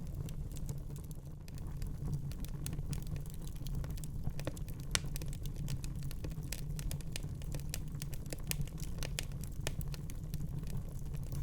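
Wood fire crackling in a fireplace: irregular sharp snaps and pops over a low, steady rumble of flame, with one louder pop about five seconds in.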